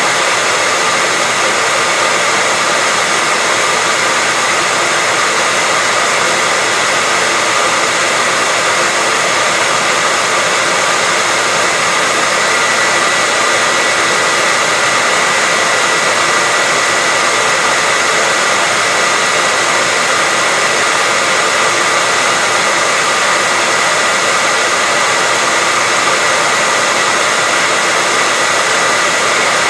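Hair dryer running steadily on one setting: an even rushing hiss of blown air with a steady whine from the motor and fan near 2 kHz.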